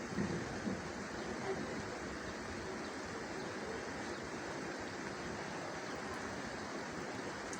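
Steady rain falling, an even hiss, with a few louder drops or patters in the first second and a half.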